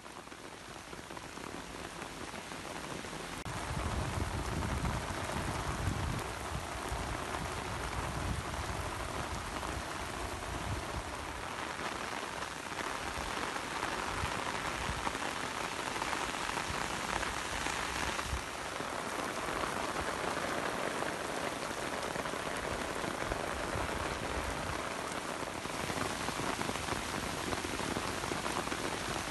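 Heavy rain pouring down onto a road and pavement, a steady hiss of rain on wet ground that fades in over the first few seconds.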